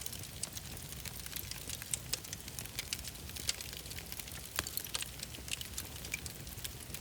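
Wood fire crackling in a fireplace: many irregular small pops and snaps over a low steady rumble.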